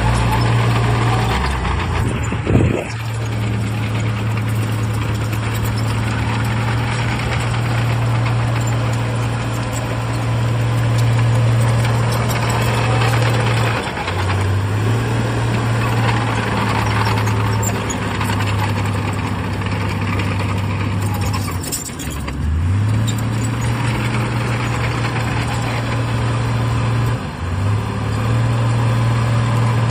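Heavy diesel engine of earthmoving machinery running under load, its steady low drone dropping in pitch and picking up again three times. A single sharp metallic knock sounds about two and a half seconds in.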